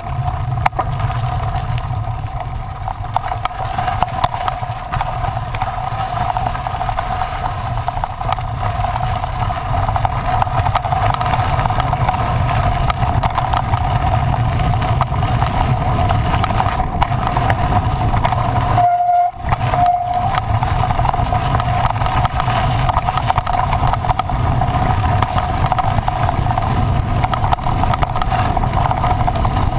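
A motor vehicle running steadily, with a low rumble, a steady whine and frequent small rattles and knocks. The sound briefly drops out about two-thirds of the way in.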